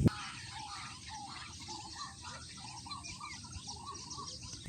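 A chorus of birds chirping and calling outdoors, many short overlapping calls, with a faint steady hiss underneath.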